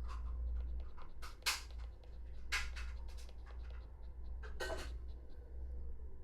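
Shiba Inu moving about, making a handful of short scratching and rustling noises over a low steady hum.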